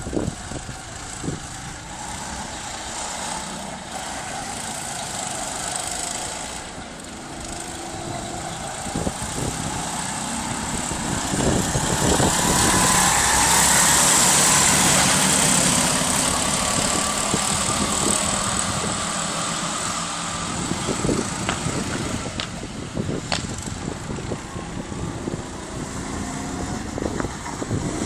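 Go-kart engines racing around a track, their pitch rising and falling with the throttle. They grow loudest about halfway through as karts come close, then fade a little.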